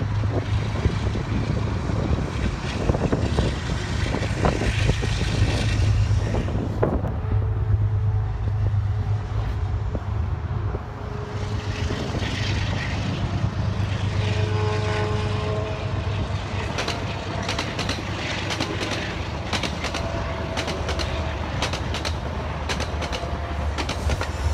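Metro-North diesel-hauled passenger train running on the tracks below, a steady low engine drone and train rumble, with a series of short clicks near the end.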